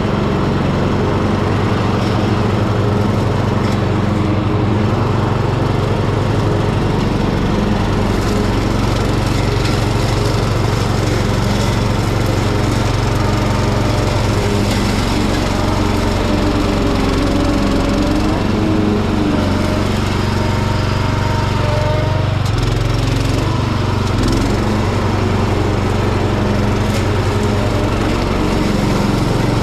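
Hecht garden tractor engine running steadily with its mower deck cutting tall, overgrown grass; the engine note wavers and shifts in pitch about halfway through as the load changes.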